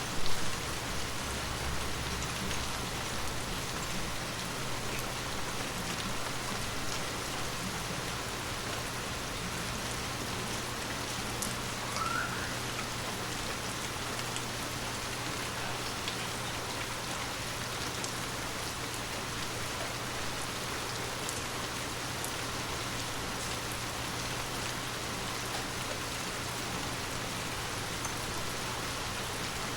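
Heavy rain falling steadily, an even hiss of countless drops, with a faint steady low hum beneath. A single sharper thump stands out just after the start.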